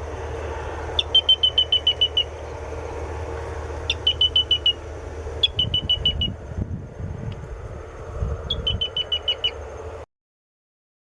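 Grey-breasted crake (sanã-do-capim, Laterallus exilis) calling: about five runs of six to eight quick, high, evenly spaced notes, each run opened by a sharper, higher note, over steady low background noise. The sound cuts off abruptly about a second before the end.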